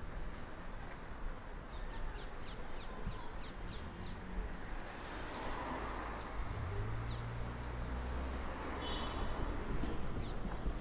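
Street ambience with a bird calling: a quick run of about eight short, sharp chirps about two seconds in, then scattered single chirps. A car engine passes with a low hum from about six to nine seconds.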